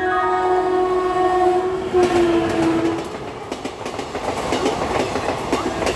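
WAP-5 electric locomotive's horn sounding as the express runs through at speed, its pitch dropping as the locomotive passes about two seconds in. Then the coaches rush past with a fast, dense clatter of wheels over rail joints.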